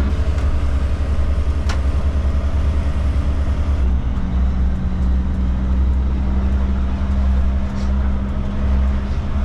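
Diesel engine of a Kenworth K200 cab-over truck running steadily while the truck drives slowly, heard from inside the cab as a deep, continuous drone. A single sharp click sounds about two seconds in.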